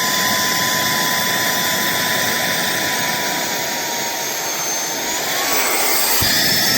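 Cordless handheld vacuum with a brushless motor running: steady rushing air with a high motor whine, the whine rising slightly in pitch about five seconds in.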